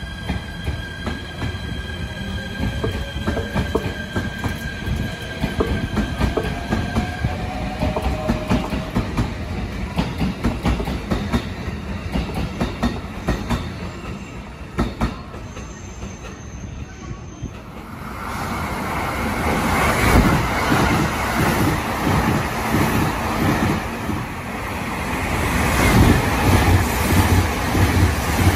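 JR 253 series 1000 electric limited-express train pulling out: wheels clacking over rail joints, with a faint whine rising in pitch as it gathers speed. About eighteen seconds in, this gives way to a louder rushing rumble of the train running through at speed, building toward the end.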